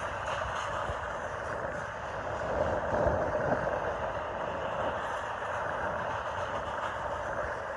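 Freight train of intermodal container cars rolling steadily past, a continuous rumble of wheels on rail that swells a little about three seconds in, with gusty wind on the microphone.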